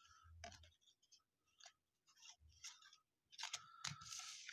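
Faint rustling and light clicks of baseball trading cards being handled and flipped through by hand. There is a longer, louder rustle near the end.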